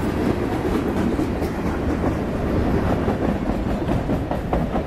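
Freight cars, tank cars and a boxcar, rolling past on steel wheels: a steady, dense rumble of wheels on rail with a few faint clacks near the end.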